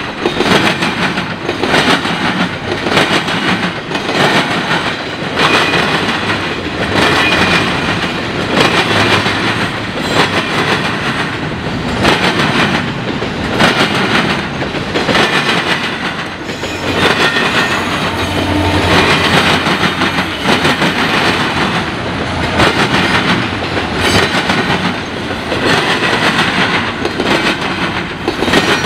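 Freight train rolling through a railroad diamond crossing, its car wheels banging over the crossing frogs in a steady repeating clatter, a set of bangs roughly every second and a half as each truck passes.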